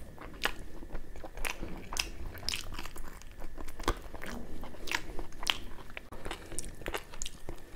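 Close-miked eating of puri with mutton curry: biting and chewing, with irregular sharp crunchy clicks about one to two a second.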